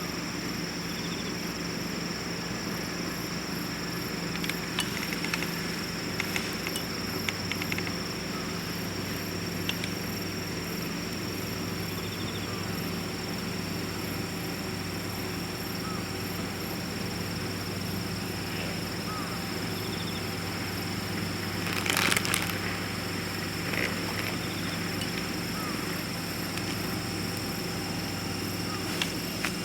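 Wood fire crackling in a VIRE rocket stove, with scattered sharp pops and a louder burst of crackles about two-thirds of the way through, over a steady hiss.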